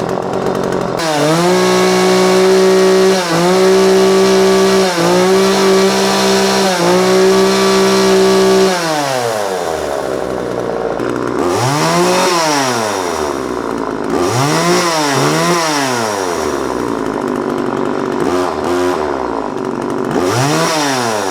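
Vintage McCulloch Mac Cat two-stroke chainsaw running a test: held at high revs for about eight seconds with a few brief dips, then dropping to idle. From idle it is revved in short blips several times, each rising and falling back.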